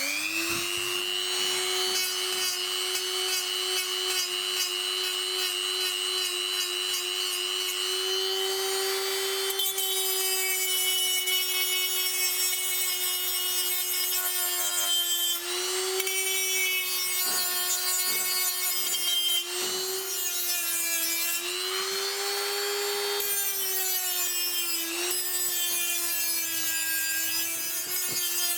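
A small electric power tool starts up and runs with a steady whine on metal. Its pitch sags briefly several times as it is loaded against the work.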